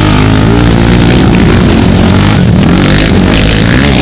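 Several racing ATV engines revving loudly, their pitches rising and falling as the quads accelerate and back off.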